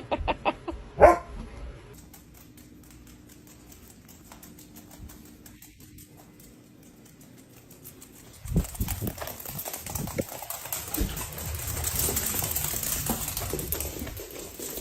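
A dog barking in a quick run of loud calls within the first second or so. After a quiet stretch there is a noisier passage of knocks and hiss in the second half.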